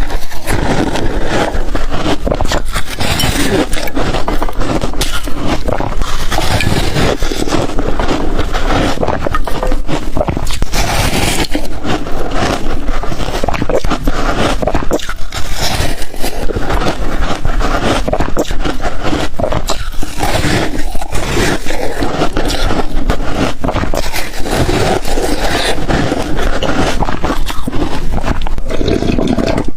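Ice dusted with matcha and milk powder being bitten and crunched in the mouth, close to the microphone: loud, dense crackling crunches with no pauses.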